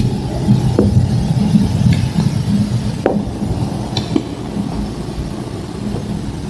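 Homemade green gym chalk slab snapping and crumbling, a few sharp cracks about a second apart, over a steady low hum.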